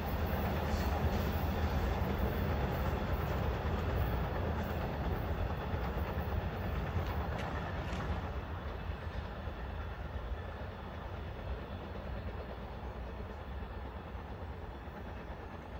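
Amtrak passenger train rolling away down the track, a steady rumble of wheels on rail that slowly fades as the train recedes.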